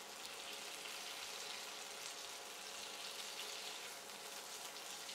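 Pepper chicken pieces frying in oil in a nonstick pan, a steady, soft sizzle.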